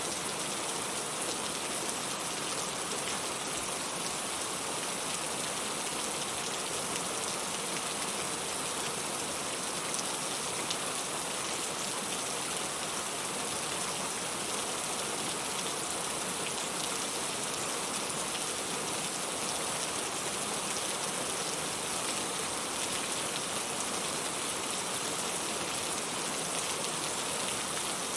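Steady rain falling: an even, unbroken hiss that never changes in level.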